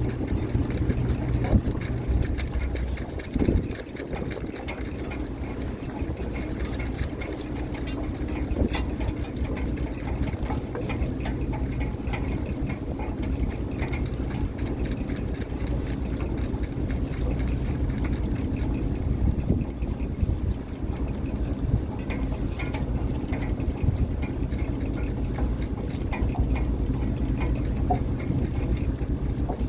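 Fishing boat's engine running steadily with a low, even hum, with a few faint clicks and knocks over it.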